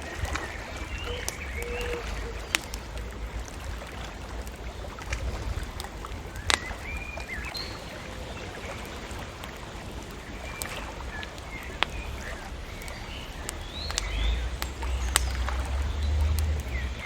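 Open wood fire crackling with scattered sharp pops, while small birds chirp in short calls, over a steady low rumble that grows a little louder near the end.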